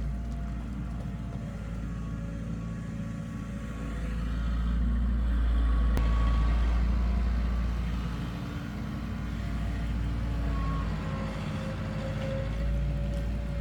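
Heavy construction-machine diesel engine running steadily, growing louder about five seconds in as it works harder, then easing back.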